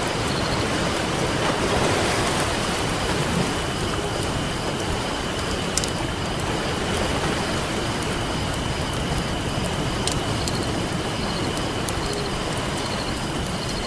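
Campfire crackling with occasional sharp pops over a steady wash of ocean surf.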